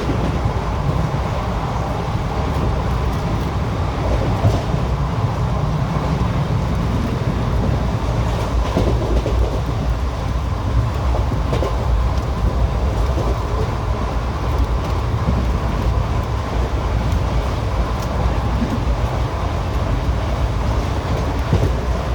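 Indian Railways ICF passenger coach running along the track: a steady, loud rumble of wheels on rail, with a few faint clicks.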